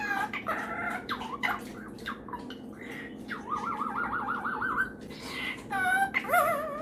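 A pet parrot calling with short chirps and squawks, and one long, rapidly wavering warble from about three and a half seconds in.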